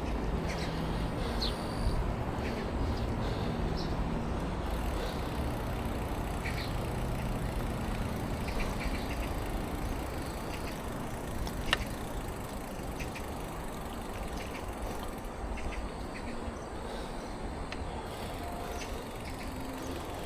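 Wind and road rumble on a bicycle-mounted action camera while riding, with a low hum over the first few seconds, a few short high chirps, and one sharp click about twelve seconds in.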